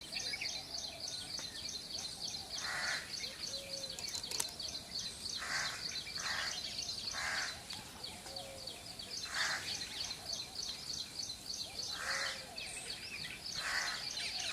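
Birds calling outdoors: a fast, steady high chirping at about five notes a second, broken by short harsh calls about seven times at irregular intervals.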